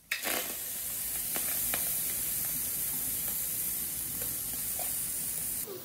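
A piece of fish sizzling as it fries in a frying pan: a steady hiss with scattered crackles, cutting off abruptly near the end.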